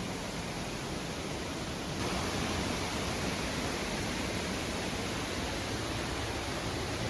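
Steady rushing noise with no pitch or rhythm, spread evenly from low to high; it gets a little louder about two seconds in.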